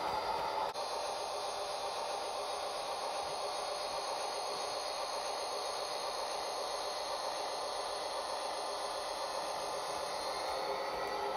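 Model train running steadily on its track: an even hiss with faint steady tones, changing briefly about a second in.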